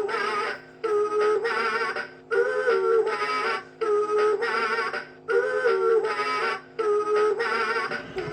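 Toy singing bird playing an electronic, synthetic-voiced song in short phrases about every second and a half, with brief breaks between them, over a steady low hum.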